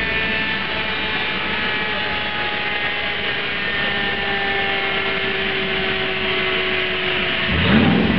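Golf MKII's 4.2 V8 and the dyno rollers running with a whine that falls slowly in pitch as they slow down. Near the end the engine revs up sharply.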